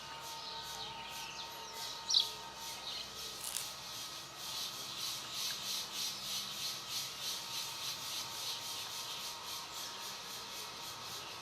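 Outdoor nature ambience: a steady insect chorus pulsing several times a second, with a short bird chirp about two seconds in.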